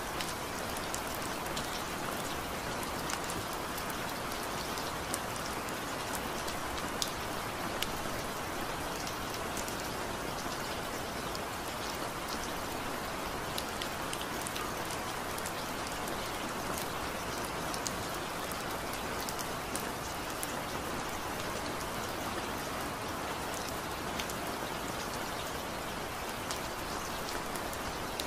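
Steady rain, with many small, sharp drop impacts over an even hiss. It is a relaxing rain sound track.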